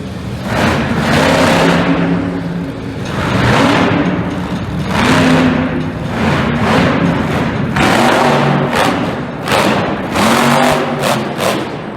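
Vehicle engine revving hard in repeated surges, each rising and falling, about every second and a half.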